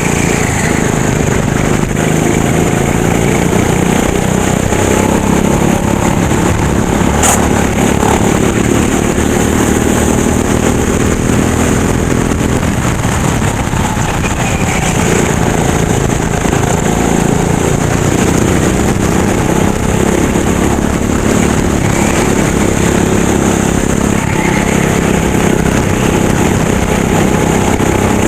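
Kart engine running hard through a racing lap, its pitch rising along the straights and dropping back for the corners, about twice in the stretch. There is one sharp click about a third of the way in.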